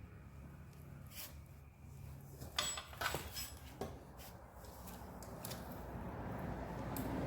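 A few short clicks and light knocks of small parts or tools being handled, bunched together in the middle, over a faint low hum.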